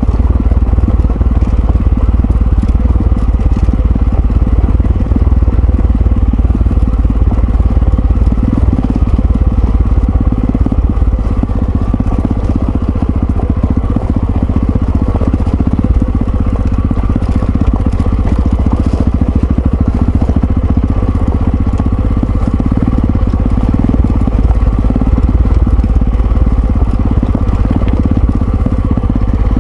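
Yamaha XT660Z Ténéré's single-cylinder engine running steadily under way, heard together with loud rumble from the ride.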